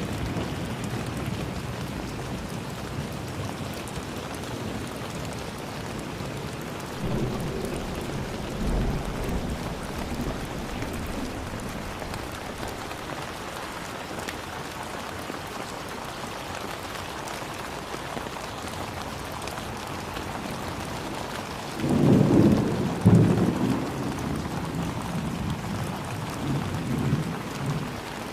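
Steady heavy rain falling, with low rolls of thunder: a softer rumble about a third of the way in, a louder peal about three quarters of the way through, and a smaller rumble near the end.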